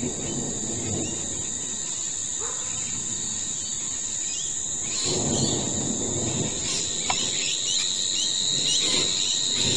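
Insects chirring steadily in two high-pitched tones, with birds chirping in the second half and a brief low rumble about five seconds in.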